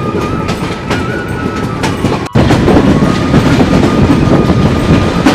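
Passenger train running, heard from an open carriage window: a steady rumble with wheels clicking over the rail joints. About two seconds in the sound cuts off for an instant and comes back louder.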